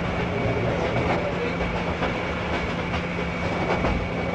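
Train running along the rails with a steady rumble and a few clicks of the wheels over rail joints, under a steady hum.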